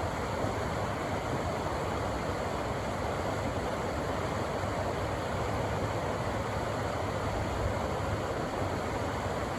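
River water rushing steadily over rocks, a constant even rush with a low rumble underneath.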